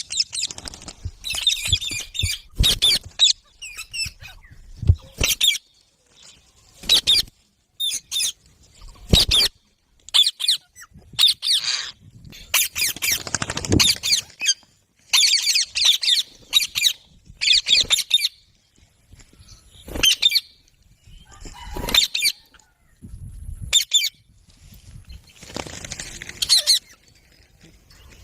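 Rose-ringed (Indian ringneck) parakeets calling: a long run of short, shrill calls, one every second or so with brief pauses between them.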